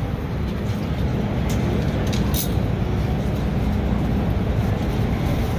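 MTR M-Train electric multiple unit running between stations: a steady low rumble of wheels and running gear with a faint steady hum, and two brief high clicks about one and a half and two and a half seconds in.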